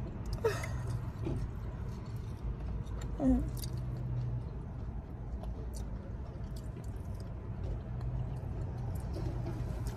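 A person chewing food, with small wet mouth clicks, over a steady low hum. A brief vocal sound comes about half a second in and another about three seconds in.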